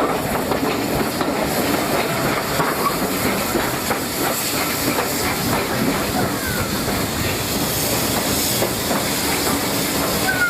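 Steam train running along the line, with steady wheel-on-rail clatter and hissing steam.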